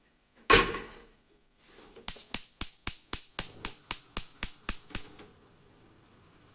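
A single loud knock, then a run of about a dozen sharp, evenly spaced taps, about four a second, that stop suddenly.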